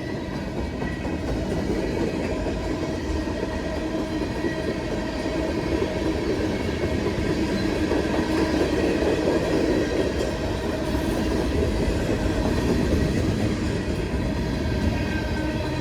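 A long CSX freight train's cars rolling past, with a steady rumble and the clatter of wheels on rail joints.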